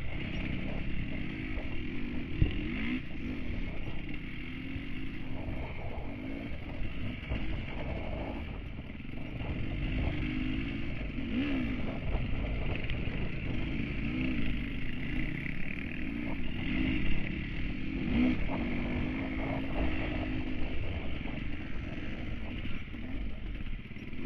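Enduro dirt bike engine running under throttle, its pitch rising and falling again and again, with occasional knocks and rattles from the bike.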